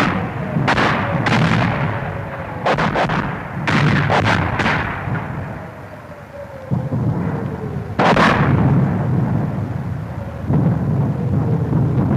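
Battle sound effect: a series of heavy gun or artillery blasts, several in quick succession during the first five seconds, then single blasts a few seconds apart, each leaving a long low rumble. A faint tone slowly falls in pitch beneath them.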